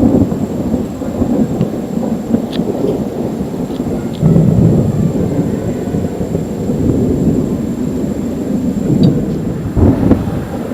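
Thunder from an electrical storm rumbling on and on, swelling louder about four seconds in.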